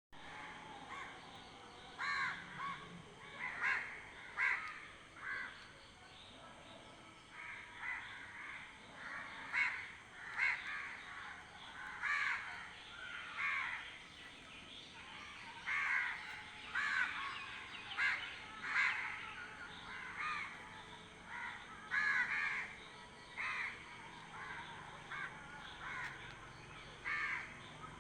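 Birds calling outdoors: many short, harsh calls repeated every second or so, some overlapping.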